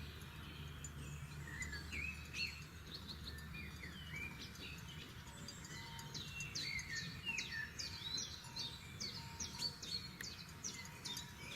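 Several forest songbirds singing and calling at once: quick overlapping chirps, whistles and trills, getting busier about halfway through, over a low steady rumble.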